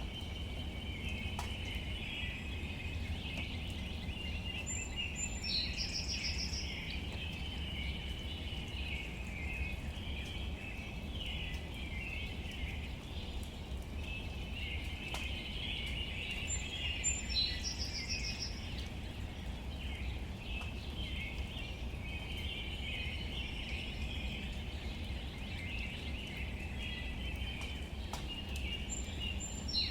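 Outdoor nature ambience: a continuous chorus of high chirping, with a bird song (a short high whistle, then a fast trill) recurring three times, about every twelve seconds. There is a low rumble underneath and a few faint ticks.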